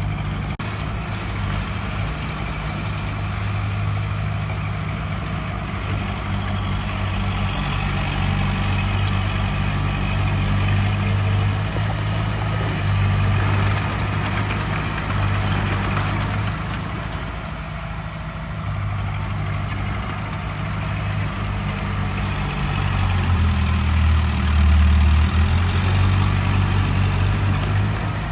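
Heavy diesel engine of earthmoving machinery running, its speed and load rising and falling. Near the end it runs louder and deeper for a couple of seconds before easing off.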